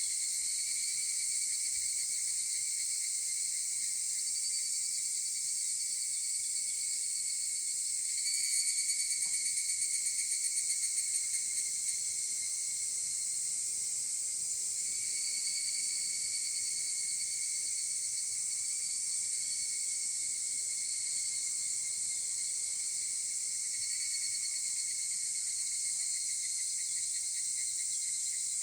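Chorus of higurashi cicadas (evening cicadas) calling, with overlapping calls swelling and fading over a steady high insect hiss. About eight seconds in, a nearer call rings out in rapid pulses for about three seconds.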